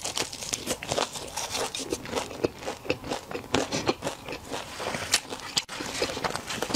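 Close-up biting and chewing of a crispy batter-fried chicken drumstick, with many small sharp crunches and crackles.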